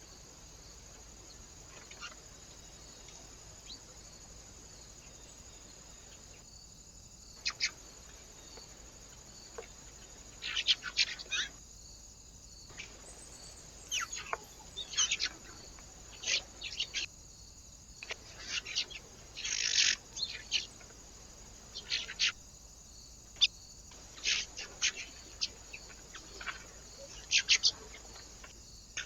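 Small birds chirping at a feeder: short, sharp, high calls in clusters, sparse at first and more frequent from about seven seconds in, over a faint steady hiss.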